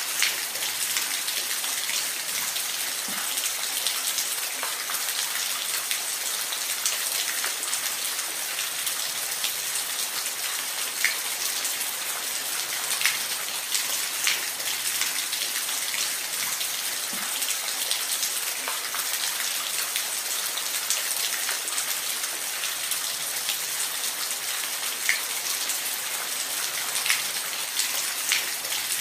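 Steady rain falling, a dense hiss with scattered louder drops ticking on nearby surfaces.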